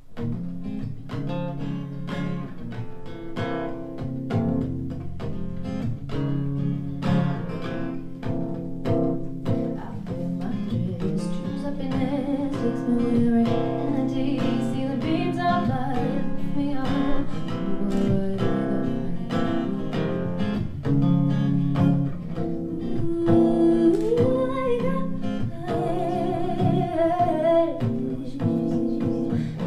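Live acoustic guitar strummed through a simple three-chord song, with a singing voice over it, most clearly in the second half.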